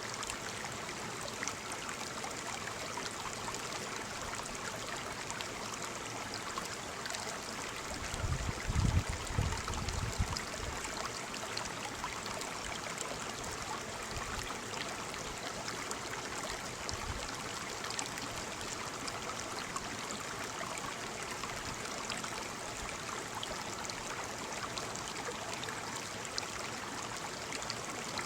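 Waterfall water falling and splashing in a steady, even rush. About eight seconds in, a brief low rumble rises for a couple of seconds.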